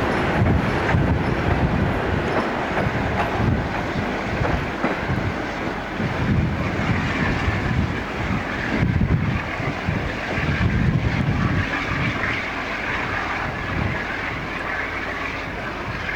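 A train running on the rails: a steady rumble with rail noise.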